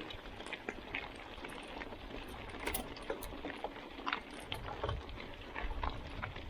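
Mountain bike rolling along a dusty dirt road: steady tyre noise on the dirt with scattered small clicks and rattles from the bike, and a low rumble about five seconds in.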